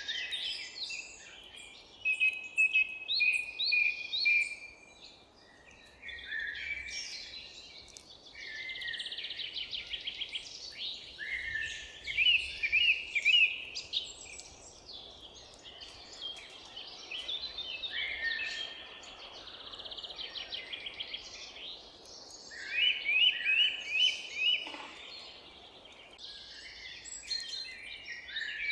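Several songbirds singing at once, with overlapping chirps, trills and quick runs of repeated down-slurred notes, over a faint steady background hiss.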